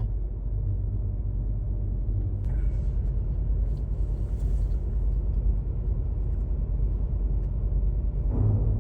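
Steady low engine rumble heard from inside a car parked on a ferry's car deck.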